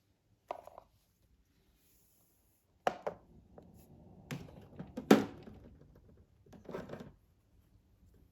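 A few separate knocks and clatters of hard objects being handled, the loudest about five seconds in, with quiet between them.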